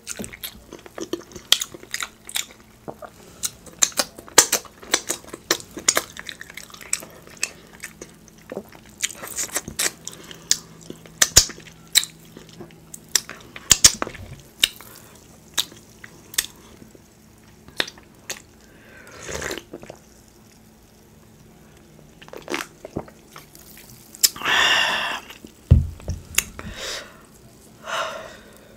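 Close-miked chewing of saucy rotisserie chicken and corn on the cob: wet smacking and clicking mouth sounds, thick for the first half and sparser later. Near the end comes one longer, louder wet sound, followed by a low thump.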